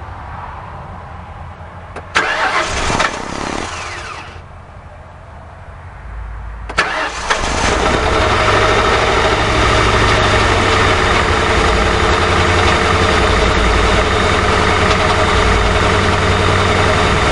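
A 2006 Ford Crown Victoria Police Interceptor's 4.6-litre V8 being cranked and catching about seven seconds in, then settling into a steady idle. The idle is the rough idle the owner is chasing, the engine visibly shivering. A burst of noise comes about two seconds in, before the start.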